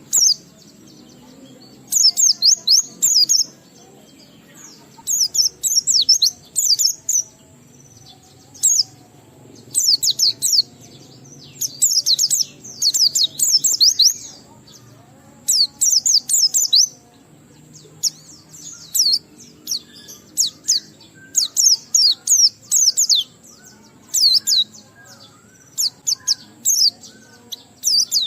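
White-eye (pleci) singing in repeated bursts of fast, high chirping phrases, each a second or two long, with short pauses between: the full, vigorous 'gacor ngalas' song.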